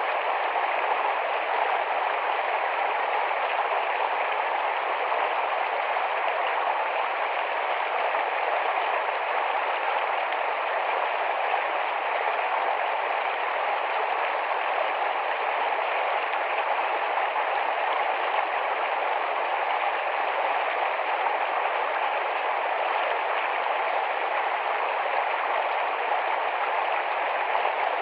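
Rapid, shallow forest stream flowing over its bed: a steady, even rush of water that does not change.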